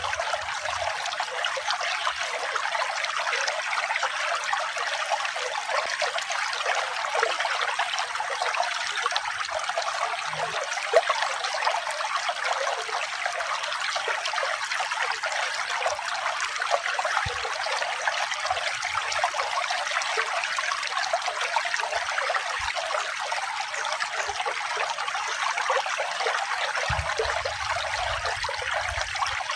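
Running water trickling and splashing steadily, like a small stream over stones.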